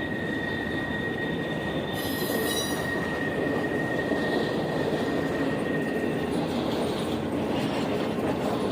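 Train rolling by with steady rumbling wheel and car noise, and a high steady steel-wheel squeal that fades out about six seconds in.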